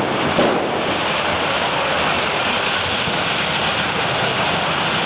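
Large bonfire burning with a steady rushing noise, and a single thud about half a second in.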